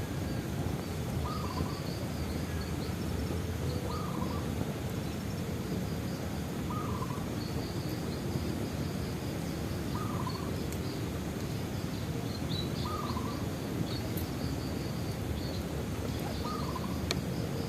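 Bonfire burning with a steady low rush and an occasional sharp crackle, while a bird repeats a short call about every three seconds over higher chirping trills.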